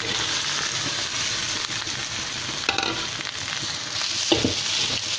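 Hot oil sizzling in a wok as cooked rice is tipped onto fried chilli paste and onions. The sizzle grows louder as the rice lands, then it is stirred with a wooden spatula, with a sharp knock about four seconds in.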